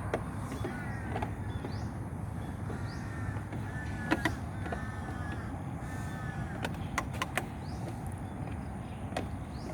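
A bird giving a series of short, arched, cawing calls in groups, over a steady low rumble, with a few sharp clicks now and then.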